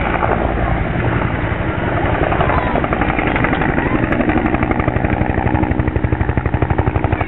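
An aircraft flying low overhead with a rapid, even chopping beat that grows stronger in the second half.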